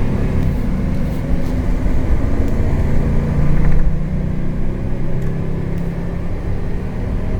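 Isuzu refrigerated box truck's engine running under part to three-quarter throttle while driving, heard from inside the cab, with a few light knocks and rattles. The engine gets louder about halfway through.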